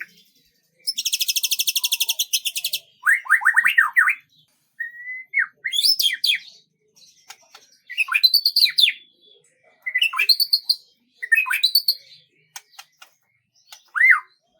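Songbird singing in separate phrases with short pauses: first a fast, very high trill lasting about two seconds, then runs of quick down-slurred whistled notes and sharp chirps.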